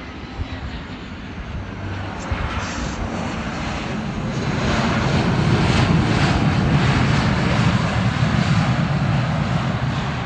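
Jet airliner engine noise passing by. It swells over the first few seconds to a steady peak and eases slightly near the end.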